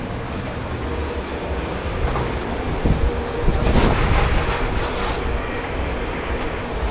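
Steady rumble and hum of commercial dish-pit machinery. About three and a half seconds in, a burst of hissing lasts about a second and a half.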